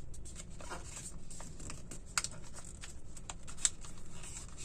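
Origami paper being folded and pressed by hand: scattered light crinkles and taps, with two sharper clicks about two seconds and three and a half seconds in.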